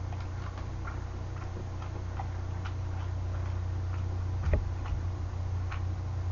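Chewing an imitation crab stick, with small wet mouth clicks over a steady low hum; one light knock about four and a half seconds in.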